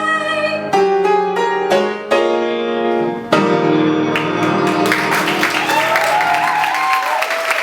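Closing piano chords ending a song: a few chords struck one after another and left to ring. About five seconds in, audience applause breaks out, with a few voices calling out over it.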